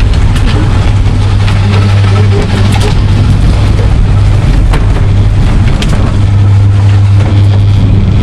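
A vehicle running with a steady low hum, with scattered light clicks and rattles over it.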